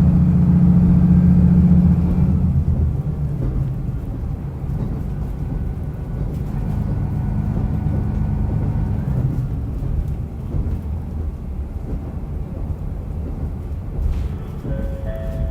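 Onboard running sound of a diesel railcar: the engine pulls hard, then eases off about two and a half seconds in, and the car rolls on with steady wheel and rail noise. A few brief tones sound near the end.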